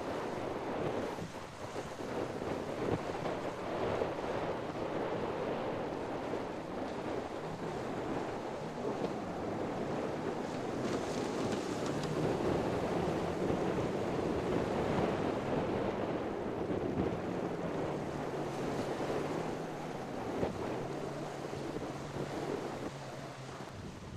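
Wind buffeting the microphone over waves washing in the inlet, with a boat's engine humming low from about a quarter of the way in.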